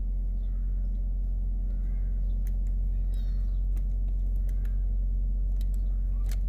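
2019 Ford Fusion's 1.5-litre EcoBoost turbocharged four-cylinder idling with the radio and climate fan off: a steady, even low hum that the owner calls smooth. A few faint clicks sound over it.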